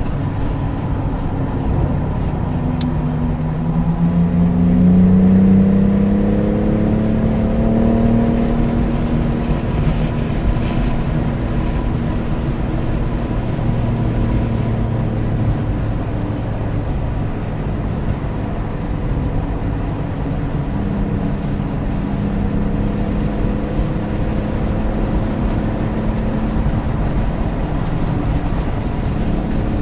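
BMW F80 M3 Competition's twin-turbo straight-six running under way, its pitch rising as the car accelerates about four seconds in and again past the middle, over steady road and wind noise.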